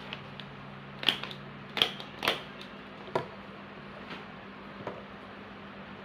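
Small items being handled while packing bird leg rings: a few sharp clicks and taps, four of them louder, in the first half, over a steady low hum.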